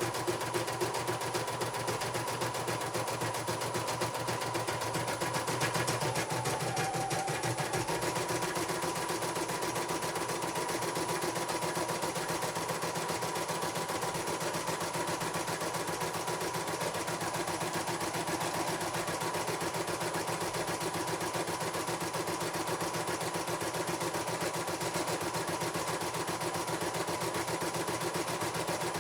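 CNY portable computerized embroidery machine stitching: a fast, steady rattle of needle strokes over a motor whine. The whine briefly drops in pitch about six seconds in.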